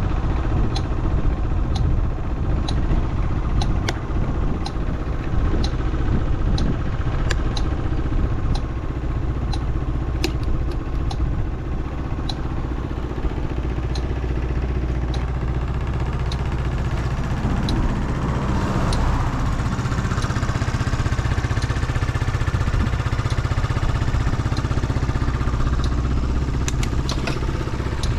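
Yamaha Cygnus X SR scooter's 125 cc single-cylinder four-stroke engine idling steadily, with a regular light tick about once a second. The sound swells briefly about eighteen seconds in. The seller calls it a running check with no abnormal noise.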